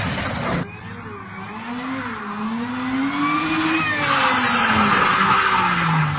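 A car drifting: its engine revs rise and fall while the tyres skid, the tyre noise swelling from about four seconds in.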